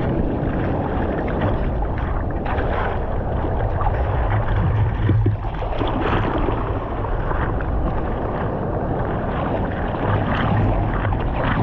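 Sea water rushing and splashing around a surfer in the waves, with a steady low wind rumble on the microphone.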